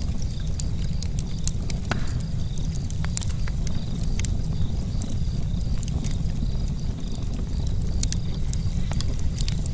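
Charcoal campfire crackling: scattered sharp pops and snaps over a steady low rumble.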